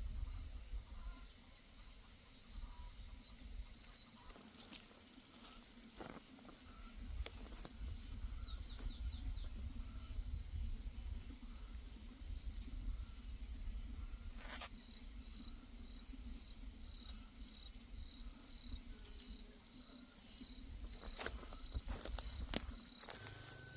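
Insects chirring steadily in a high band. In the second half there is a run of short chirps, about two a second, and a few sharp knocks are scattered through, with several near the end.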